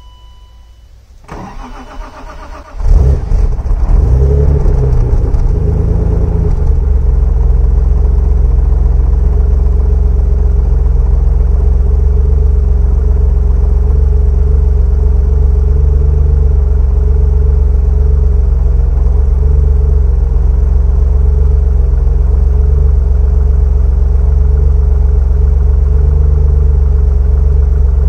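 BMW E34 535i's M30B35 3.5-litre straight-six, stock exhaust with the catalytic converter removed, cold-started at −10 °C: the starter cranks for about a second and a half, the engine catches about three seconds in with a brief rev flare, then settles into a steady idle.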